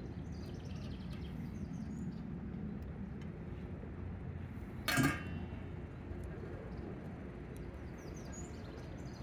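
Steady low outdoor background noise with a bird singing a short run of high, falling notes twice, near the start and near the end. About five seconds in comes a single brief sharp sound, the loudest thing heard.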